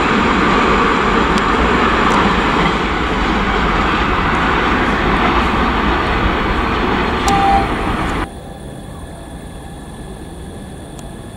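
Loud, steady rumble and rolling noise of a train running through a station, easing off slowly. About eight seconds in it cuts off abruptly to a much quieter steady hum of station ambience.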